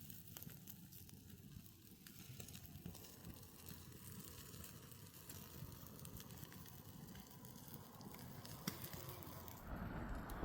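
Wood campfire crackling faintly, with scattered small pops and a soft sizzle from chicken cooking on the embers. Near the end a louder low rushing noise sets in.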